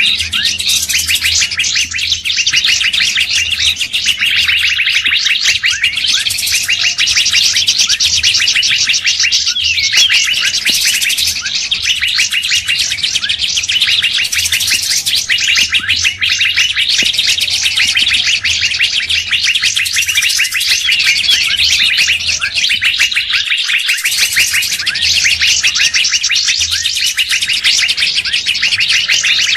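Bird-lure recording: a dense, continuous chatter of many songbirds chirping and calling over each other in rapid, high notes.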